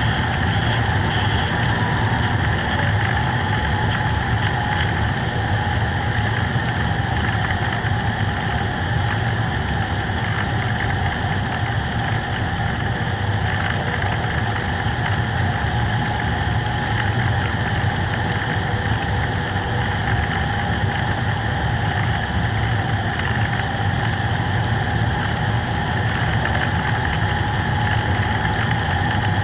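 Motor and propeller of a radio-control FPV plane running steadily in flight, a constant droning whine over a rushing hiss, heard from the onboard camera.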